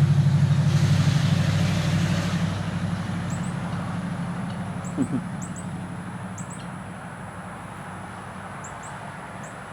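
A motor vehicle's engine hum, loud at first and fading steadily over several seconds, with a scattering of short, high chirps from hummingbirds at a feeder.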